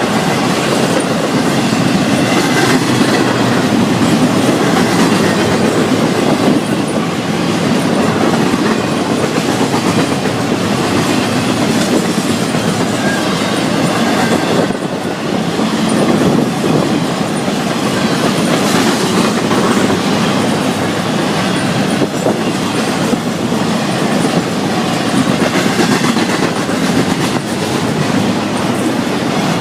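Florida East Coast Railway freight train's cars rolling past, a loud, steady rumble of steel wheels on the rails.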